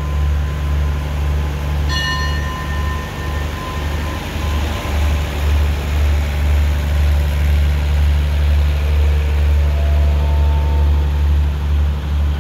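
Passenger train carriages rolling slowly past as the train pulls out, a steady low rumble that wavers in loudness. A brief ringing tone sounds about two seconds in, and fainter higher tones follow later.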